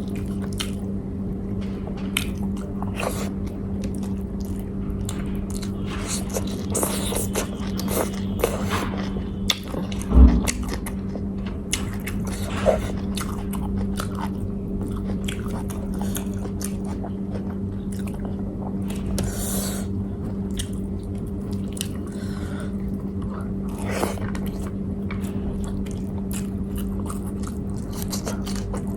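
A person chewing and biting into food close to the microphone, with irregular wet mouth clicks and crunches, over a steady low hum. A single thump about ten seconds in.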